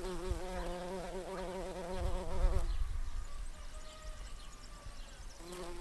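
Honeybee buzzing close up while foraging on flowers, a wavering wingbeat hum that is loud for the first two and a half seconds, drops to a faint hum, and swells again briefly near the end.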